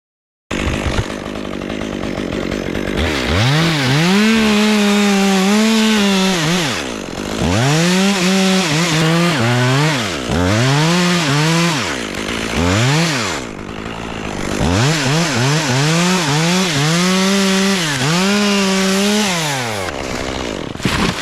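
Two-stroke chainsaw making a felling cut, throttled up to full revs and let back down several times as the bar bites into the trunk. The saw is small for the tree.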